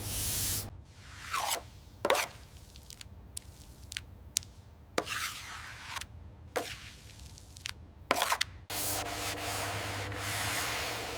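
A series of short rubbing and scraping strokes and sharp clicks, some of them sweeping down in pitch. About three-quarters of the way through, a steady hissing noise with a low hum cuts in and carries on.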